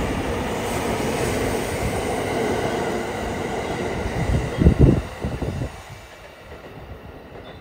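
Thunderbird limited-express electric train moving along the platform: a steady rumble of wheels and running gear. A few heavy low thumps come about four to five seconds in, then it turns quieter.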